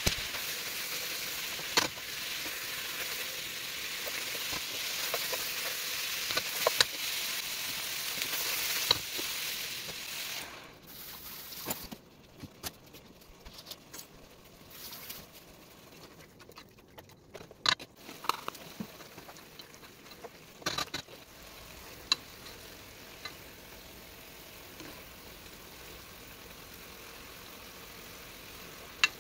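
Cabbage and carrots sizzling in a hot pot, with now and then the click of a spoon against the pot as it is stirred. The sizzle is strong for about the first ten seconds, then drops to a much quieter hiss.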